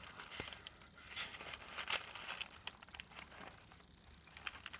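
Paper pages and tags of a handmade junk journal rustling and crinkling softly as they are turned and handled, with scattered small clicks.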